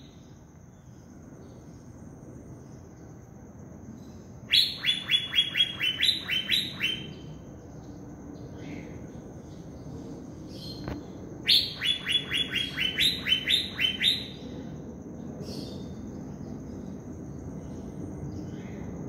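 Asian fairy-bluebird (cucak biru) giving its 'tembakan' call twice, about four seconds in and again about eleven seconds in: each burst is a quick run of sharp, falling notes, about four to five a second, lasting two to three seconds.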